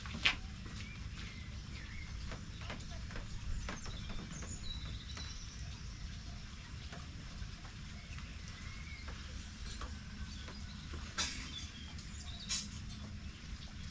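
Small birds chirping on and off over a steady low rumble, with a few sharp clicks, one just after the start and two near the end.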